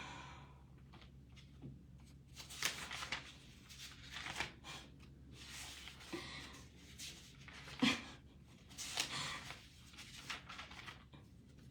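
Soft, irregular rustling and handling noises in a small room, with a few light clicks and knocks.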